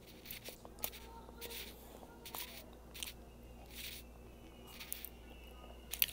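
A person chewing food close to the microphone: short, irregular wet smacking mouth sounds about once or twice a second, the loudest near the end.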